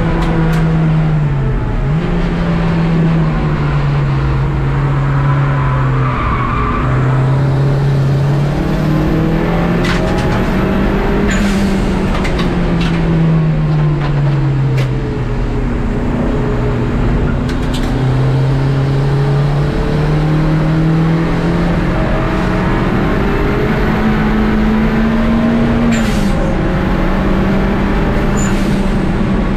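Race car engine heard from inside the stripped cabin at speed, its pitch climbing through the gears with a drop at each upshift, easing down around the middle under deceleration, then pulling hard again, over steady road and wind noise. A few sharp clicks come through along the way.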